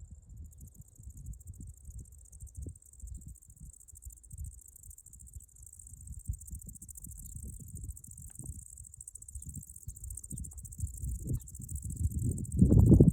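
Insects trilling in a steady, high-pitched, finely pulsing chorus. Irregular low rumbles and knocks run underneath and swell into a louder rumble near the end.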